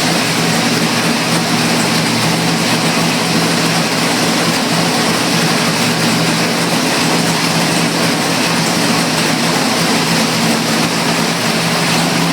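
582 cubic-inch big-block Chevrolet V8 racing engine running loud at a steady speed, its pitch and level holding even with no revving.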